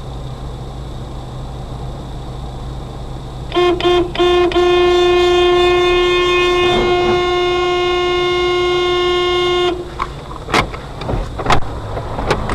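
Car horn honking: three quick short toots, then one long steady blast of about five seconds, over a steady vehicle hum. A few sharp knocks follow near the end.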